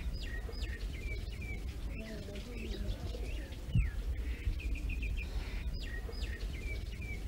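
Small birds chirping: short, high chirps and quick sweeping notes, with similar phrases coming back again and again, over a steady low outdoor rumble.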